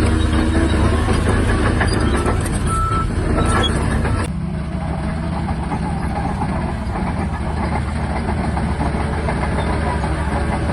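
Shantui DH17-C3 bulldozer's diesel engine running steadily, with a couple of short beeps in the first few seconds; after an abrupt change about four seconds in, a fast regular clatter of its steel tracks runs over the engine.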